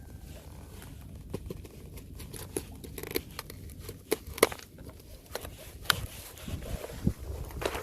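Thin, fresh ice cracking and clicking: irregular single sharp cracks, a few every second, with no steady rhythm.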